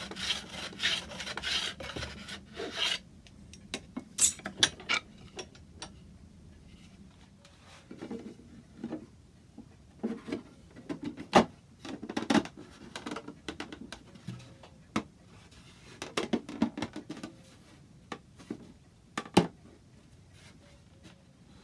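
Hand tool scraping wood in quick strokes for about three seconds, then scattered sharp knocks and taps of wood and tools on the bench.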